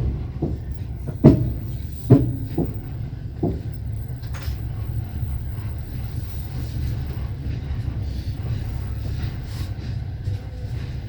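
Passenger train wheels knocking over rail joints: about six sharp clacks in the first three and a half seconds, then a steady low rumble of the carriage rolling on.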